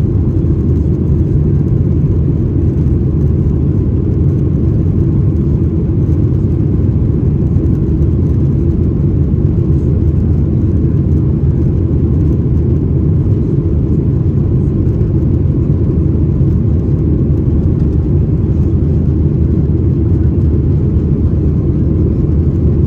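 Steady low rumble inside the cabin of a Boeing 737-800: engine and airflow noise heard from a window seat, holding even throughout.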